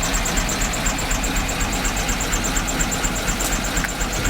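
1969 Chevrolet C50 truck's big-block V8 running at idle, with a steady fast light ticking over the rumble. The oil pressure line is unhooked and no oil comes out of it: the engine is running with no oil pressure, which the owner puts down to the oil pump pickup or a distributor that isn't driving the pump.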